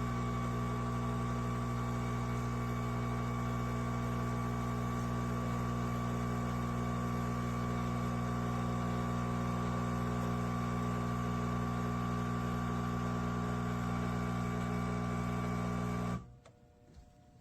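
De'Longhi Eletta Explore automatic espresso machine running while it makes a latte: a steady mechanical hum that cuts off suddenly about 16 seconds in.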